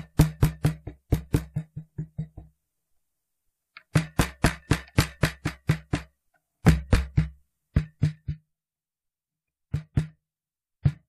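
Cajon played through its pickup and a 7545R preamp equalizer: quick runs of slaps and bass strokes, a low booming tone under each hit, with two short breaks in the playing. The electric cajon sound tends to be 'flat'.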